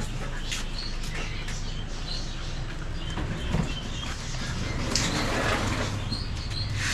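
Small parrots in an aviary chirping in short, scattered high calls over a steady low hum, with a few clicks and some rustling about five seconds in.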